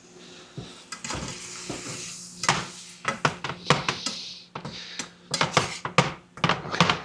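A spatula stirring vegetables in a hot pan: repeated clacks and scrapes against the pan, starting about two and a half seconds in, over the hiss of the vegetables frying.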